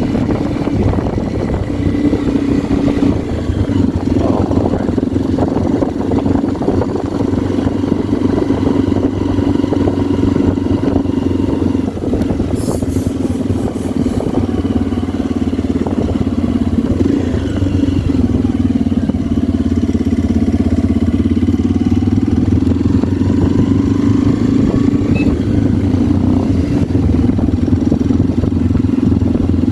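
Motorcycle engine running steadily under way, heard from on the bike, with a short run of clicks about midway.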